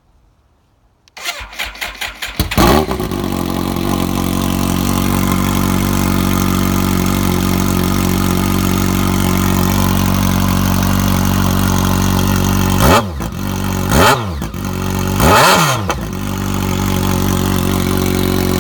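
2005 BMW K1200S inline-four with a nearly baffle-free GP shorty exhaust being started: the starter cranks in short pulses for about a second and a half, the engine catches with a rev, then idles steadily and nice and loud. About two-thirds of the way through, the throttle is blipped three times, the last rev the longest, before it settles back to idle.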